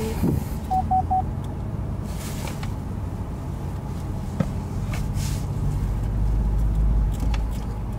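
Chevrolet C8 Corvette's V8 running at low speed in reverse, a steady low rumble heard from inside the cabin, which swells around six seconds in as the car pulls back. About a second in, the car sounds three quick warning beeps.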